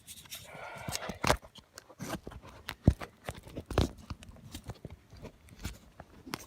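Irregular clicks and knocks of small metal hinge-pin kit parts being handled and fitted into a truck door hinge.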